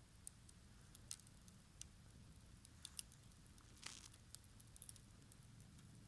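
Garden wood fire crackling faintly: scattered sharp pops and snaps, with a brief hiss about four seconds in, over a low steady rumble.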